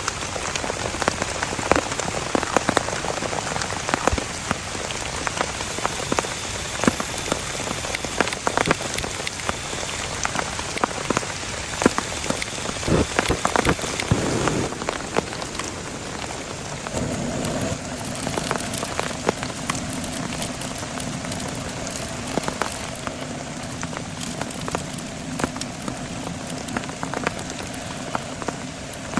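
Heavy rain falling on a surface, with many sharp individual drop hits through a steady hiss. A steady low hum joins about two-thirds of the way through.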